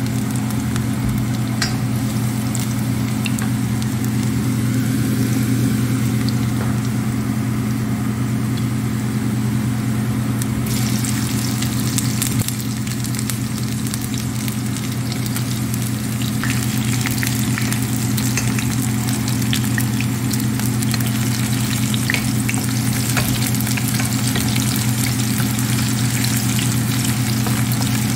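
Garlic frying in oil in a stainless steel skillet, a steady crackling sizzle that grows louder and busier about ten seconds in, once sliced onion is in the pan. Near the end a wooden spoon stirs the pan. A steady low hum runs underneath.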